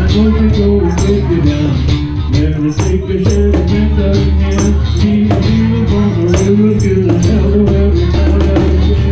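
Acoustic folk band playing live: a cajón keeps a steady, even beat under plucked strings and a sustained low line.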